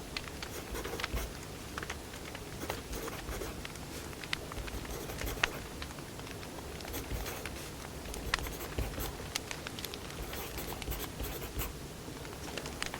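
Wood fire crackling: irregular sharp pops and snaps scattered over a steady low hiss of burning logs.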